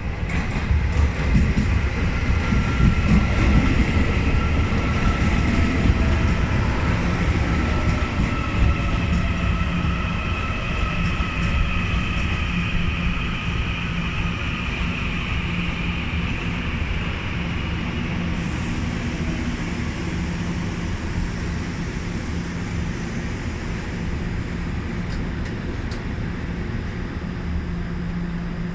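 Taiwan Railway Puyuma Express, a TEMU2000 electric multiple unit, pulling into a station: a loud rumble of wheels on rail that peaks in the first few seconds and then eases off as the train slows. A faint high whine slowly drops in pitch throughout.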